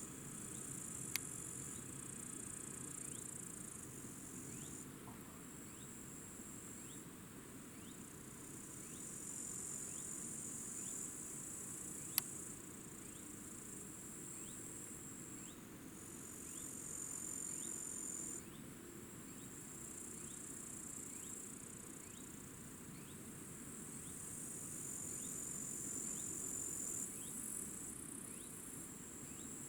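High-pitched insects chirring in the grass in stretches of several seconds that start and stop, with two single sharp clicks, one about a second in and one near the middle.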